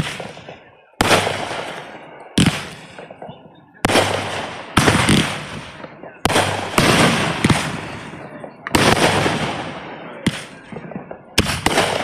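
Fireworks going off in quick succession: about ten loud bangs, each fading away over about a second before the next.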